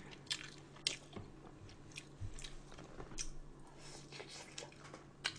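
A person chewing food close to the microphone: soft, irregular wet mouth clicks and smacks, quiet, with a faint steady hum underneath.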